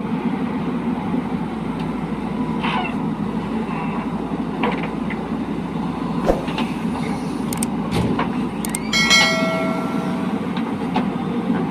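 Heavy diesel machinery running steadily, with a few sharp metallic knocks and a brief high tone with overtones about nine seconds in.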